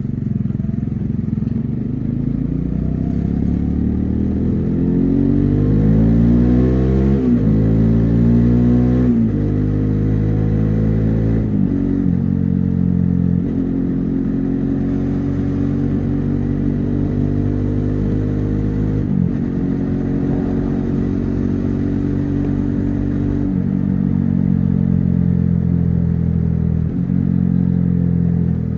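Bajaj Dominar 400's single-cylinder engine and exhaust under riding: revs rising hard through the gears with upshifts about seven and nine seconds in, then held at a steady highway cruise with a few brief dips in revs.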